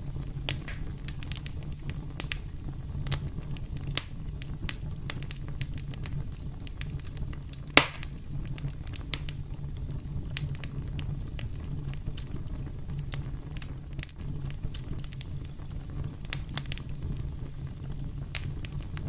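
Campfire crackling: irregular sharp pops and snaps over a steady low rumble of the burning fire, with one loud pop about eight seconds in.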